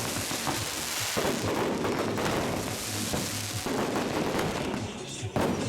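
Firecrackers going off in a dense, continuous crackle of rapid pops and bangs, with a sharp louder blast a little past five seconds in.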